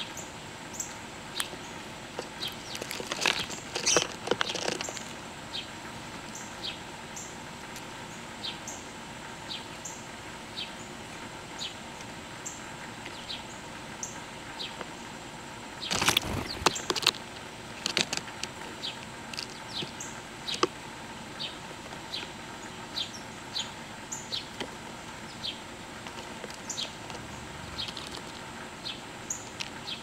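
Small birds chirping, with short high chirps repeating about once a second throughout. Two brief bursts of clatter come about three seconds in and about sixteen seconds in.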